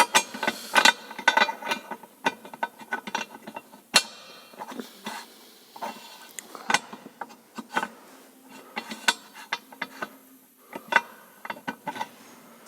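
Irregular metallic clicks and clinks from a pump gear being rocked and turned by hand in its housing, knocking through its play as its runout is checked.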